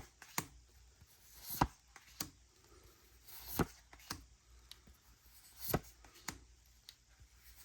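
Trading cards being handled while a pack is flipped through: a string of sharp, short taps and clicks at uneven spacing, roughly one a second, with faint rustling between.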